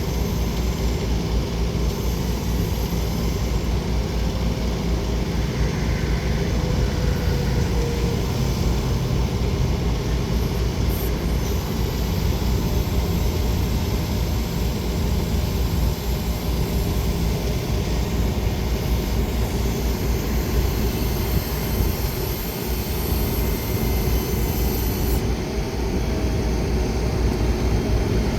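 Steady engine idle drone with an even, fast low pulsing and a constant hiss above it; the level holds throughout.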